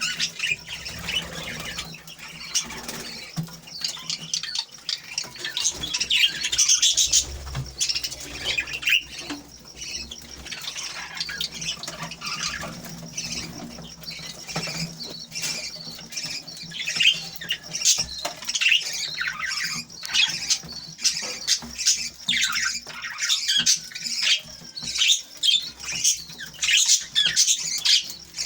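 Budgerigars chattering, with many quick chirps and harsh squawks overlapping without pause, growing busier in the last few seconds.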